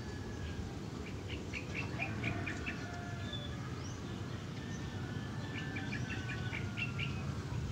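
Small birds chirping in quick high series, about a second in and again near the end, over a steady low hum.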